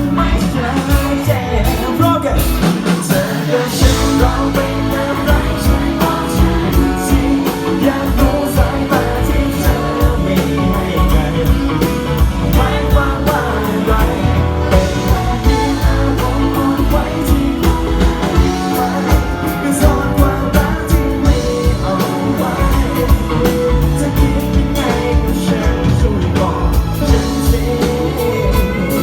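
Live rock band playing a song with a singer's voice over a steady drum beat and full band backing.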